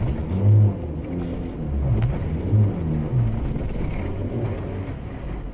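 Car engine running with a low rumble as the car pushes through deep floodwater on a flooded street, heard through a dashcam's microphone inside the cabin.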